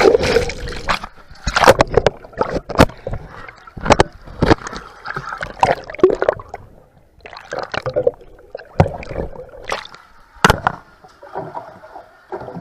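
Water splashing and sloshing around a boat in irregular, sudden slaps.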